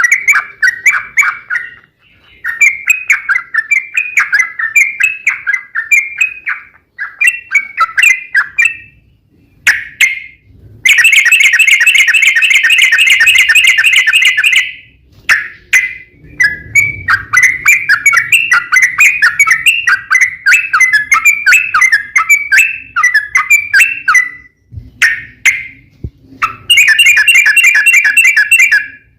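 Yellow-vented bulbul (trucuk) song: runs of bubbly, chattering phrases, twice giving way to a long rapid trill, about four seconds long partway through and about two seconds near the end.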